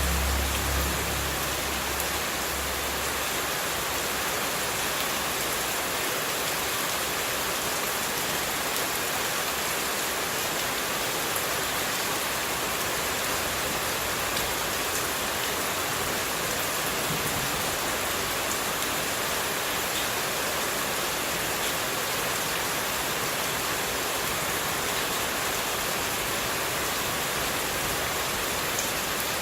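Steady rushing hiss of running water, played as continuous white noise, with a low rumble under it for the first few seconds.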